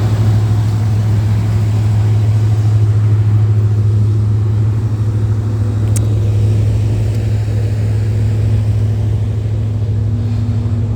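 A large engine running steadily, a constant low drone with no change in speed.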